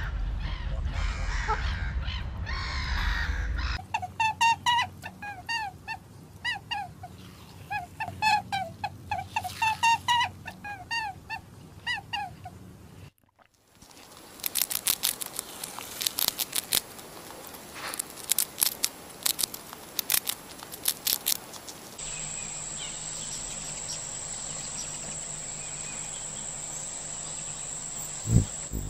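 A run of separate animal-sound clips: chirping calls repeated in quick runs, then a stretch of sharp clicks, then a steady hum with a high, thin whine and a thump near the end.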